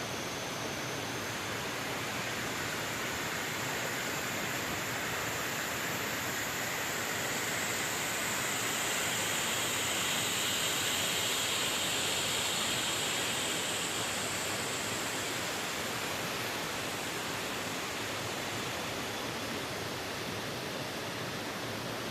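A waterfall's steady rush of falling water, growing slightly louder and brighter around the middle before easing back.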